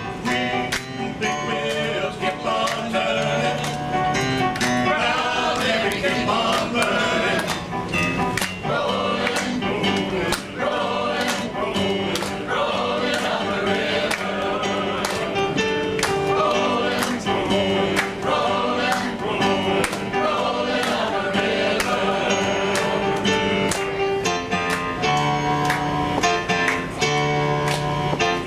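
Male chorus singing together to a strummed acoustic guitar.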